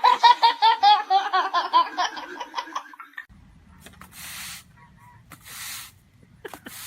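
A voice in a fast run of short laughing pulses that dies away after about three seconds. Then a faint low hum with two soft hissing bursts.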